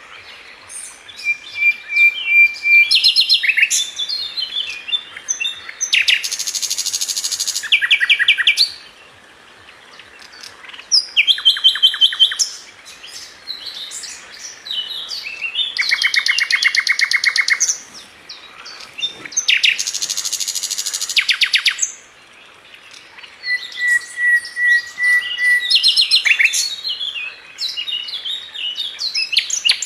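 Sikatan london flycatcher singing a varied song: rapid rattling trills, jumbled chattering phrases and a held steady whistle, broken by short pauses.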